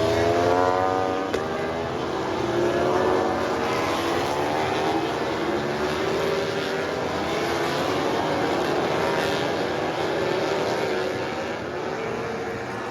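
Racing motorcycle engines at speed, several at once, their pitch sliding up and down as they rev and go by.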